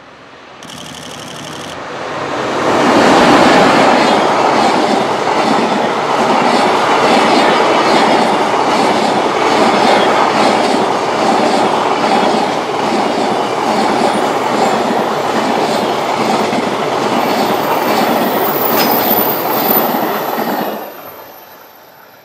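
EH500 electric locomotive and a long train of container wagons passing close by, the wheels clattering over the rails in a steady rhythm. It swells over the first few seconds as the train arrives, holds loud, and drops away quickly near the end as the last wagon passes.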